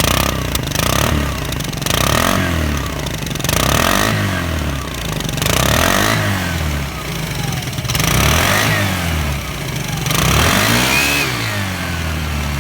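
Vespa LX scooter engine idling and being blipped on the throttle about five times, roughly every two seconds, through an exhaust drilled with a 7 mm hole to bypass the catalytic converter and silencer chamber for more sound.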